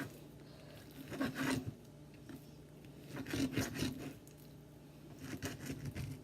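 Kitchen knife sawing through a stack of raw chicken breasts on a cutting board, in three bouts of rasping strokes about two seconds apart.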